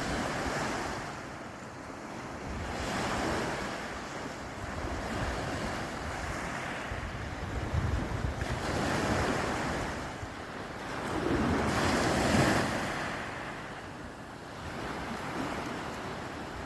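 Sea waves washing ashore, the surf swelling and fading every few seconds, with wind buffeting the microphone.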